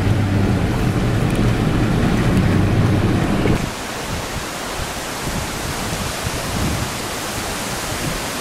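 Low rumbling road and wind noise from inside a moving car, cut off abruptly about three and a half seconds in. A steady hiss of outdoor wind follows.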